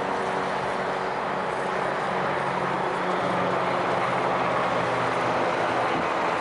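EMD diesel locomotive engine running steadily, a constant low engine drone with a steady rushing noise over it.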